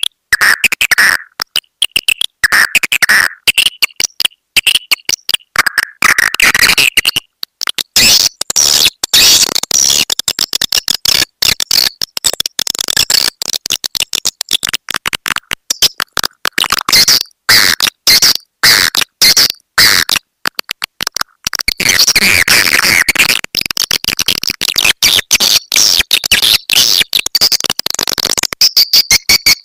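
Swiftlet lure call recording: dense, rapid chattering chirps and twitters of swiftlets, loud and continuous. About a second before the end it changes to an even, fast run of high pulses.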